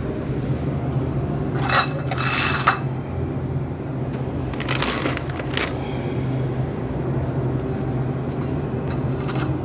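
Glass soju bottles being handled, clinking and rattling in three short bursts about two, five and nine seconds in, over a steady low hum.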